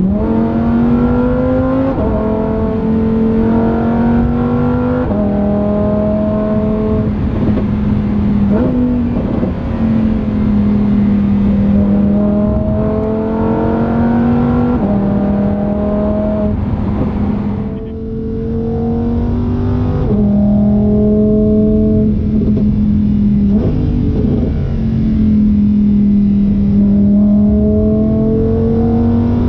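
Lamborghini Huracán Performante's 5.2-litre V10 accelerating hard through the gears: the engine note climbs steadily and drops back at each upshift, every two to four seconds, with a brief lift off the throttle about eighteen seconds in.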